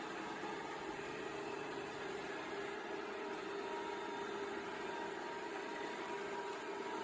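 Robot vacuum's suction fan and brushes running with a steady hum and several constant whining tones.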